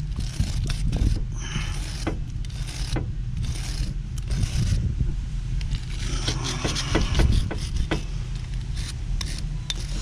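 Hand wire brush scrubbing old thread-locker off metal threads in quick, repeated scraping strokes.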